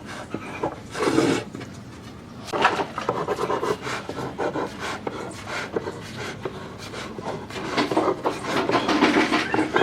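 A hand tool rasping and rubbing against wood in irregular strokes, with a short loud stroke about a second in and denser, louder strokes near the end.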